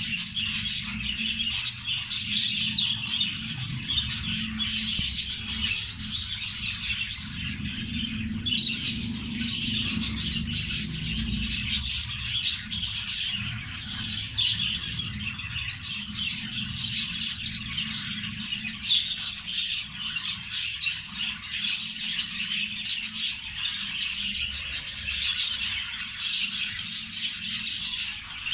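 Budgerigars chattering: a dense, continuous stream of rapid chirps and warbles over a steady low hum.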